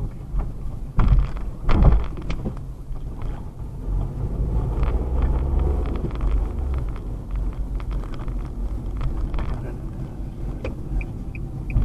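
Steady low road and engine rumble of a car driving, heard inside the cabin. Two loud thumps come about one and two seconds in, and a quick series of short high beeps begins near the end.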